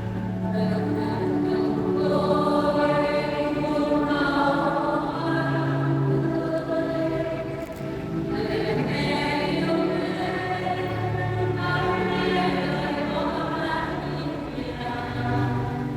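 Choir singing a hymn in long, held notes.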